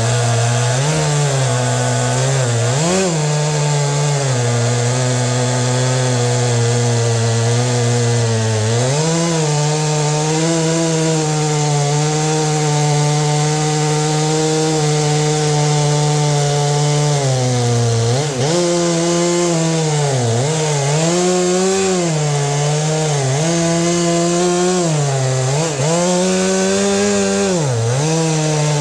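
Stihl two-stroke chainsaw cutting through hard ironwood at full throttle, its engine pitch dipping again and again as the chain bogs down in the wood, then picking back up. In the middle it runs for several seconds at a steady high pitch.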